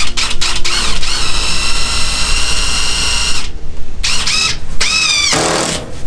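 Cordless drill driving screws into wood: a few sharp clicks, then the motor whines steadily for about two seconds, stops, and is triggered again in two short bursts and one longer pull that rises and falls in pitch.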